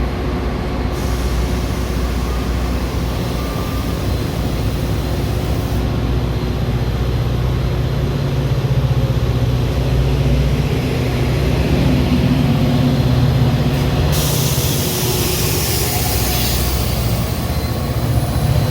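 Metra commuter train standing with its diesel locomotive running in a steady low rumble; about three-quarters of the way through a long hiss of air starts and keeps on, typical of the air brakes releasing.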